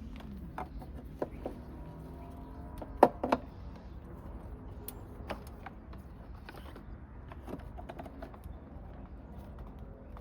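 Scattered small clicks and taps as carburetor parts and tools are handled during reassembly. The loudest is a sharp double click about three seconds in.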